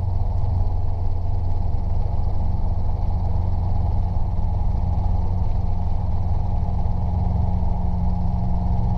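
Robinson R22 helicopter's engine and rotor running at flight power in a steady low drone as it lifts into a hover.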